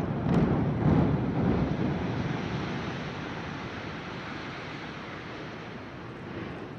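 Explosive demolition of a high-rise: a last sharp detonation crack near the start, then the rumble of the collapsing building and falling debris, loudest in the first two seconds and slowly fading.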